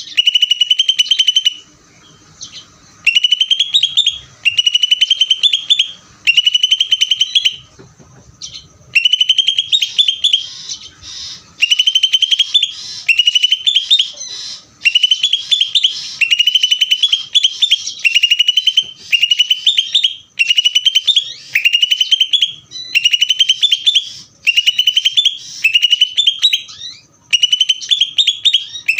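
A green leafbird (cucak ijo) in full, nonstop song, repeating loud phrases of rapid rising notes about a second long with brief gaps between them.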